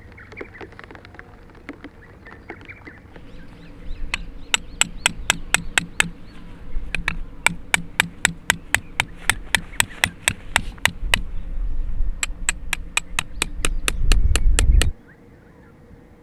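A hammer driving tent pegs into the ground: several runs of sharp, evenly spaced strikes at about four a second, with short pauses between runs, stopping abruptly near the end.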